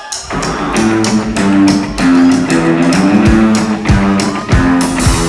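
Rockabilly band playing live: the instrumental opening of a song kicks in right at the start, a guitar line over a steady drum beat.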